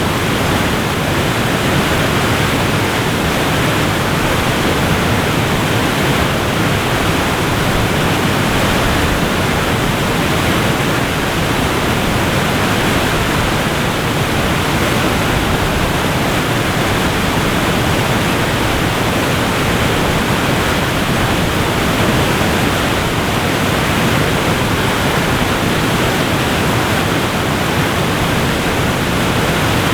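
A waterfall's steady rush of falling water: an even, unbroken noise, fuller in the low and middle range than at the top.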